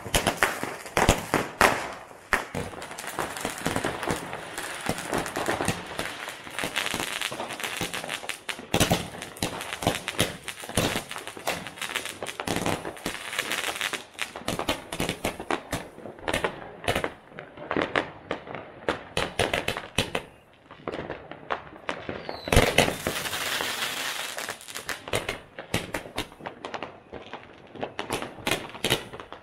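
Fireworks display: a dense run of bangs and rapid crackling from exploding rockets and crackling stars. It thins out about two-thirds of the way through, then swells again into a loud burst about three-quarters in.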